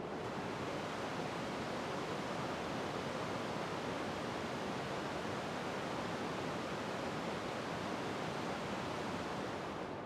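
Heavy rain pouring down, a steady dense hiss with no single drops standing out.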